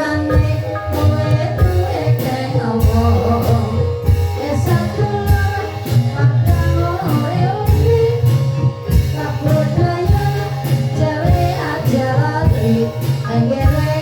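Javanese gamelan-style music accompanying an Ebeg dance: a female singer's gliding vocal line over ringing tuned percussion and a steady beat of drum strokes.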